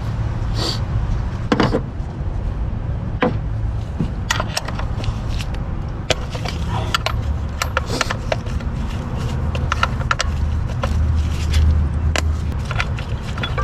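Scattered metallic clicks, knocks and clinks of hand tools and parts during engine disassembly, over a steady low hum.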